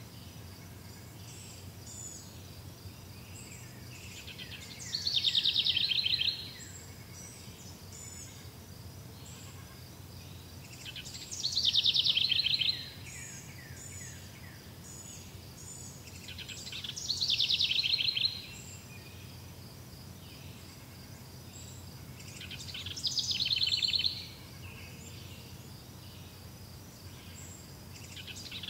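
A songbird singing one short song about every six seconds, four times. Each song is a high note falling into a fast, descending trill. Under it runs a faint, steady chirring of insects.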